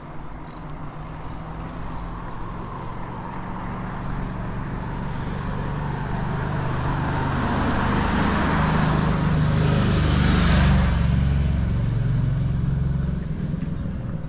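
A car approaching and driving past slowly, its engine and tyre noise growing louder to a peak about ten seconds in, then fading away.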